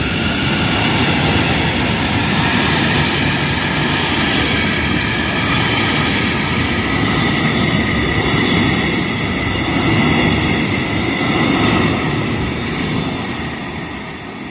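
Freight train of covered hopper wagons rolling past close by: a steady rumble and clatter of wheels on rails, with high ringing tones above it. It fades over the last couple of seconds as the last wagon moves away.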